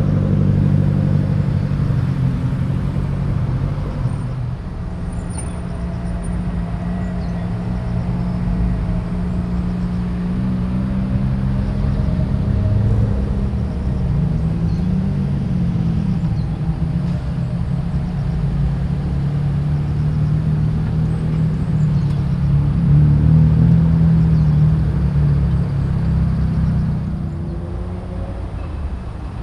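Car engines running at low revs as cars roll slowly past one after another, a deep rumble whose pitch rises and falls as each car eases on and off the throttle.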